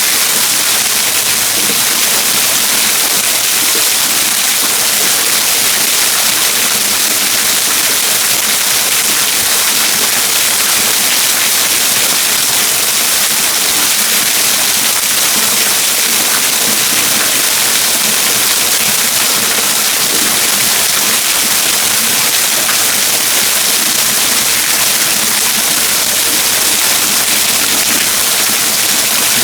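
Water pouring down a waterfall: a steady, loud rushing hiss, heaviest in the high range, unchanging throughout.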